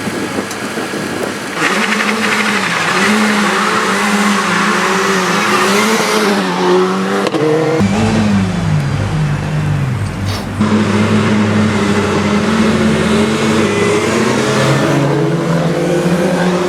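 Renault Clio Cup race car engine running hard at high revs. About eight seconds in the pitch falls away as it comes off the throttle, then it climbs back up from about ten and a half seconds.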